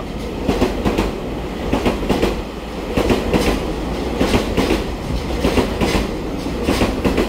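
Electric multiple-unit train rolling past the platform, its wheels clicking over the rail joints in a string of sharp clacks over a steady rumble.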